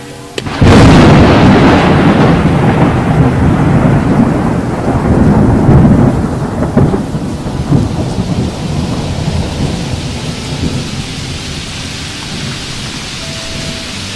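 Loud sizzling of shallots and herbs frying in hot oil in a wok. It sets in suddenly about half a second in and slowly dies down.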